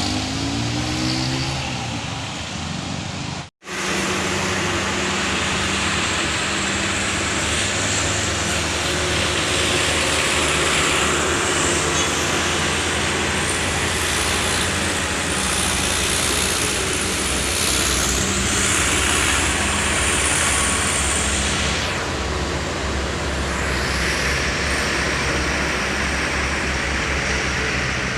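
Heavy truck loaded with sugarcane, its engine running under load on an uphill bend, with tyre and road noise. The engine pitch rises in the first second or so; the sound cuts out completely for a moment about three and a half seconds in, then runs on steadily.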